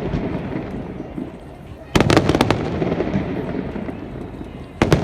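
Fireworks exploding: a sudden cluster of rapid bangs about two seconds in that rumbles away, then another burst of bangs near the end.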